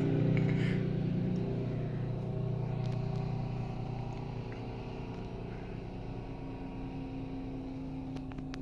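A truck engine running steadily, its sound slowly fading as it moves away.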